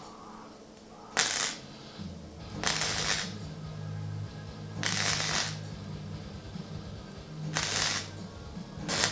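Short welding tacks, five crackling bursts of about half a second each, spaced irregularly, as a steel panel is tack-welded in place. Background music with a bass line comes in about two seconds in.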